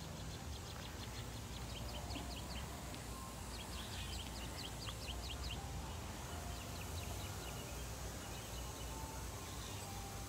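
A small bird singing three runs of quick, high chirps, over a steady low background rumble.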